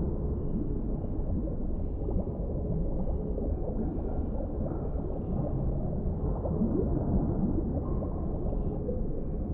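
Underwater ambience: a steady, muffled low rumble with scattered gurgling bubbles and short rising pitch glides, most of them a little past halfway.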